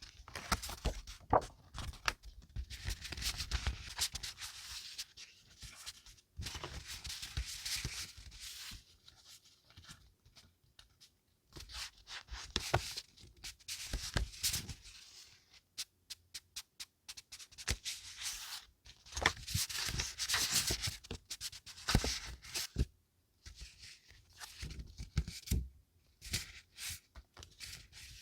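Paper being handled close up: bursts of rustling and tearing a few seconds long, with a quick run of small taps and clicks about halfway through.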